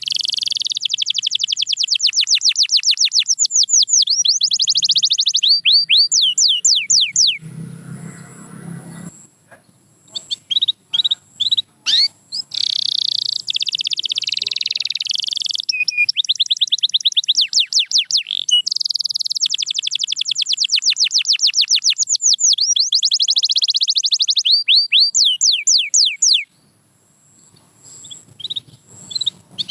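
Domestic canary singing in long, fast trills of rapidly repeated notes. The song shifts between several trill types, with a pause about a quarter of the way in and another near the end.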